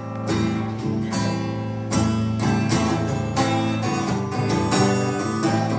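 Acoustic guitar strumming chords in an instrumental passage without singing, the strumming growing louder about two seconds in.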